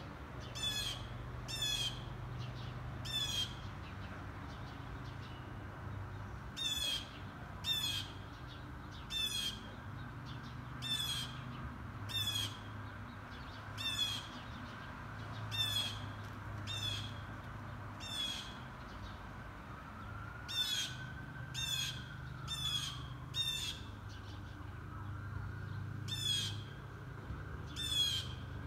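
A bird giving short harsh calls over and over, about one every one to two seconds, each call falling slightly in pitch, with a pause of a few seconds early on.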